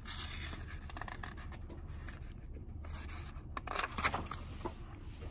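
Paper rustling and scraping as the pages of a picture book are handled and turned, with a few light ticks and a slightly louder rustle about four seconds in.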